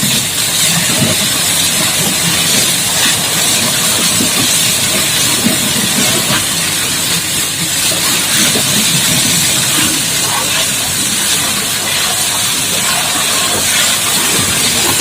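High-pressure water jet from a booster-pump wash hose spraying, a loud steady hiss.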